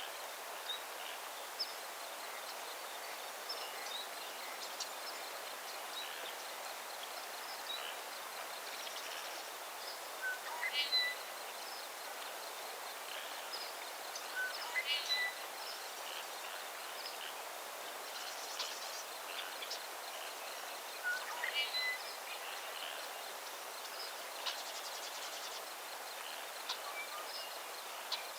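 Outdoor ambience of songbirds over a steady hiss, with scattered short chirps and a faint, steady high-pitched tone. One bird sings the same short phrase three times, each a few seconds apart, and these are the loudest sounds.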